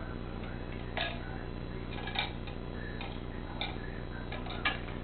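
Plastic sippy cups knocking and clicking as they are handled, a handful of light scattered taps with two or three close together near the end, over a steady low hum.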